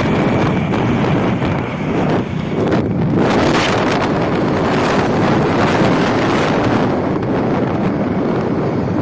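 Wind buffeting the microphone, a loud rushing noise with no clear tones, surging about three seconds in.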